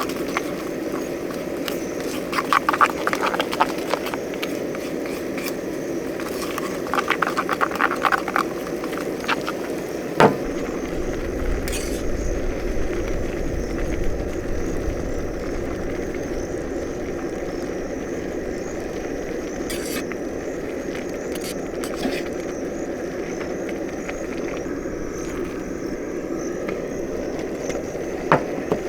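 Frogs calling in short trills of rapid clicking pulses, two bursts within the first ten seconds, over a steady rushing noise, with one sharp knock about ten seconds in.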